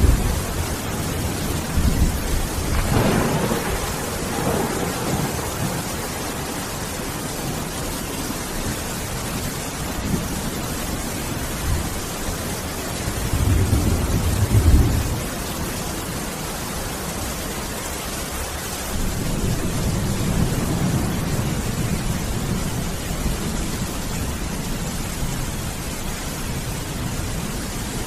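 Steady heavy rain with thunder rumbling several times, the loudest roll about halfway through and a longer, softer one soon after.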